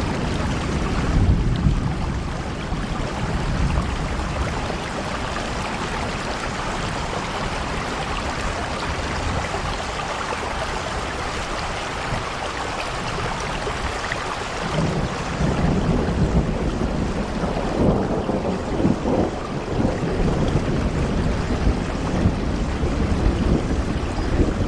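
Steady rain falling on a window, an even hiss across the whole range, with low rumbling swells at the start and again through the second half.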